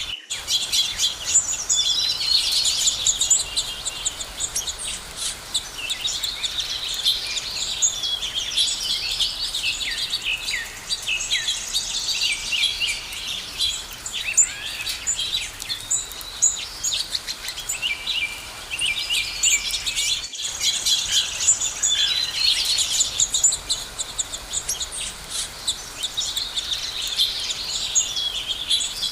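Many birds chirping and singing at once, a dense chorus of short high calls and quick whistled glides, broken by a brief gap about two-thirds of the way through.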